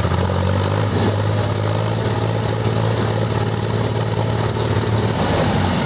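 Tractor diesel engine running steadily with a low, even drone.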